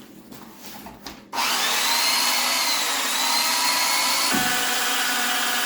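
An electric winch motor switches on about a second and a half in and runs steadily with a whine, hauling a car in on its cable.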